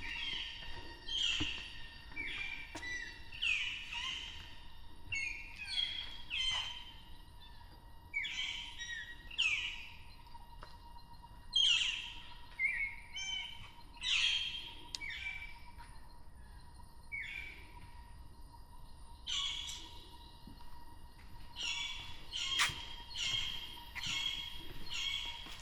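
Jungle birds calling: a long run of short, sharp notes, each sweeping downward, coming about once a second with a couple of brief pauses. A faint steady whine sits underneath.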